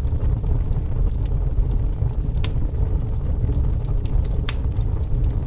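Campfire crackling, with scattered sharp pops, two of them louder at about two and a half and four and a half seconds in, over a steady low rumble.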